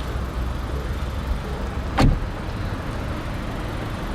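A car door of a 2015 Volkswagen Golf shut once with a solid thud about two seconds in, over a steady low rumble.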